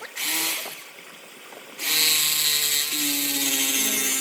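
Electric power tool running: a short burst near the start, then the motor running steadily from about two seconds in, its pitch dropping slightly a second later as it takes load.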